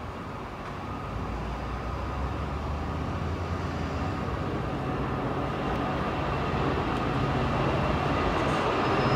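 A train approaching, its running sound growing steadily louder.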